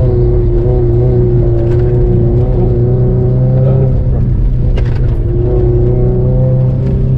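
Car engine running under load, heard from inside the cabin while driving on gravel. Its pitch holds and then shifts about halfway through, with a few brief knocks.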